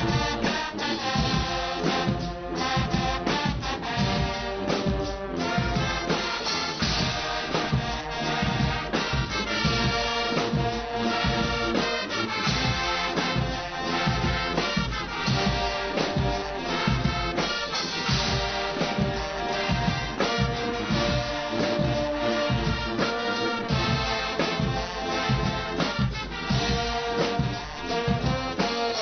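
Guggenmusik band playing live: loud massed brass, trumpets and trombones, over a steady drum beat.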